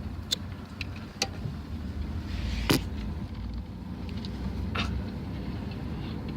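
Truck driving, a steady low engine and road rumble, with scattered sharp clicks and one louder knock near the middle.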